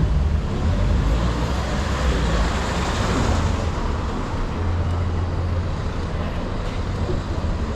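City road traffic heard from a moving bicycle: a steady low rumble, with a louder swell about three seconds in.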